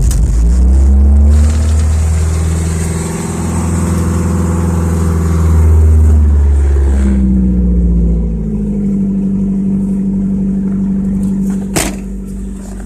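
Cold car engine that has just caught after a hard start in sub-zero cold, running at a high, uneven fast idle, then dropping to a lower, steadier idle about eight seconds in. It runs rough, 'not happy at all', from the cold start. A single sharp click sounds near the end.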